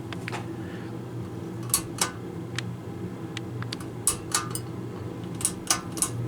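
Harbor Breeze Vue 42-inch ceiling fan motor running on medium speed with a steady, really loud electrical hum, plus several sharp clicks at uneven intervals. The owner thinks the hum may come from the fan sitting unused for two years.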